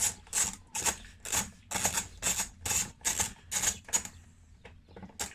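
Ratchet socket wrench with a flathead bit clicking back and forth, about two strokes a second, as it undoes a screw. The strokes stop about four seconds in, followed by a couple of single clicks.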